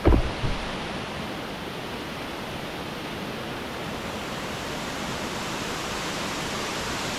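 Anna Ruby Falls waterfall rushing in a steady, even roar of falling water. A few low thumps sound in the first half-second.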